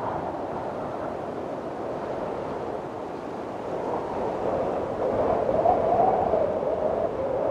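Windstorm wind blowing in a steady rush, with a wavering, whistling howl that swells louder in the second half.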